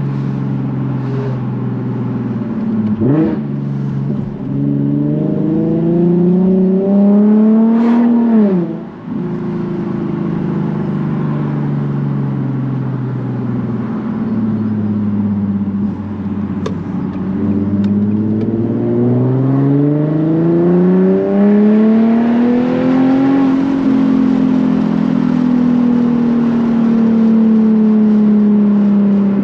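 Nissan 370Z's 3.7-litre V6 through a Tomei titanium catback exhaust, accelerating hard. There is a quick rev blip about three seconds in, then two long climbs in engine pitch. The first is cut off by a sudden drop at a gear change about eight seconds in; the second eases back down near the end.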